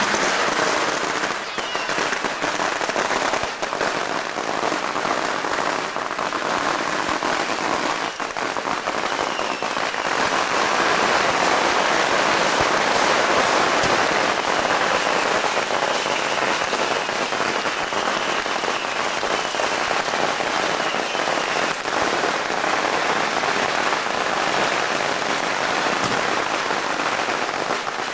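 Strings of firecrackers going off in a dense, unbroken crackle, a little louder for a few seconds near the middle.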